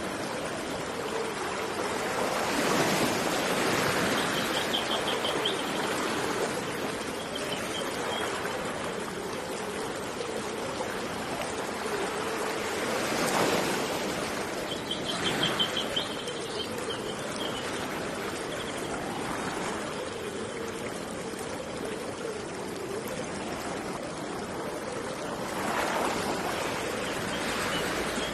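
Steady running water of a river or stream, swelling louder three times as sea waves wash in, with short high chirping trills repeating several times over it.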